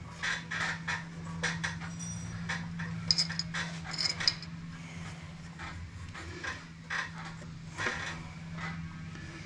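Small metal parts clinking, rattling and scraping as they are handled, with sharper clicks about three and four seconds in, over a steady low hum.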